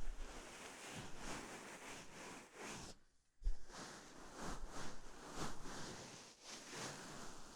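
Knit cardigan fabric stroked and pressed over microphone ears: soft brushing swishes about once a second. A brief dead gap about three seconds in is followed by a low, muffled thump.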